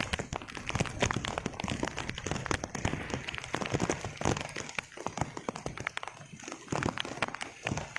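Rain drops pattering close to the microphone, a dense, irregular run of sharp ticks over a rushing background.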